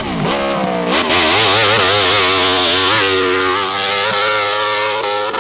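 Hill-climb motorcycle engine revving hard, its pitch wavering quickly up and down as the throttle is worked on the climb. The pitch dips twice in the first second, then stays high.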